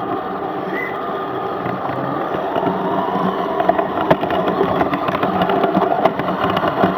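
16mm scale live-steam garden railway locomotive running: a steady hiss and rumble of steam and motion, with a scatter of sharp clicks, thickest in the middle and later part.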